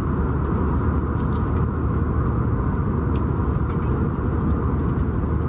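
Airliner cabin noise in flight: the steady roar of the engines and rushing air, with a few faint light clicks.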